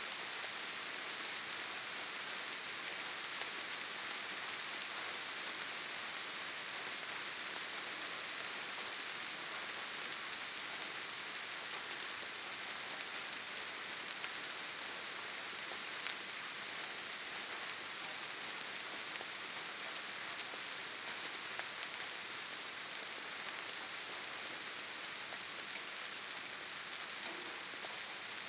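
Steady rainfall, an even hiss of rain on surfaces with scattered drop ticks.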